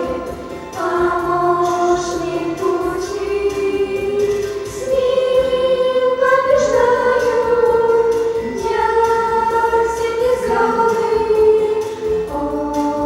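A youth choir singing a Christian song, voices in unison or harmony, holding long sustained notes.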